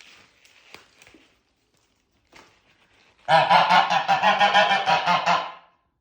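Domestic geese honking loudly in one fast, pulsing run of calls, starting about three seconds in and lasting about two and a half seconds. A few faint clicks come before it.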